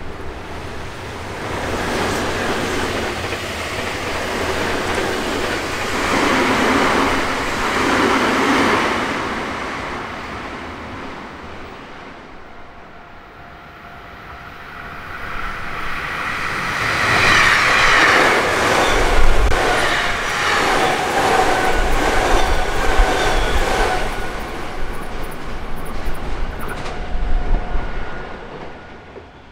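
Electric trains passing on the line. One goes by and fades. Then a second, louder pass brings a steady clatter of wheels over the rail joints, with a faint whine under it.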